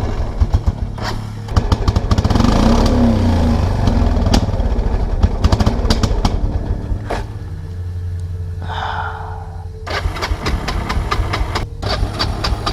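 Kawasaki Prairie 300 ATV's single-cylinder engine running rough under the throttle. It revs up about two seconds in, settles to a lower, steadier run, then picks up again near the end. It is running rich, which the rider puts down to a carburetor float stuck open.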